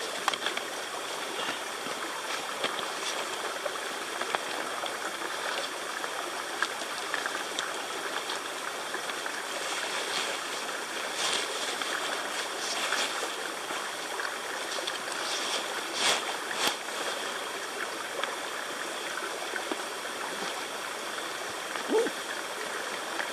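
Steady rushing outdoor noise, like falling rain or running water, with a faint thin steady high tone under it. A few short rustles and knocks come about halfway through and again later.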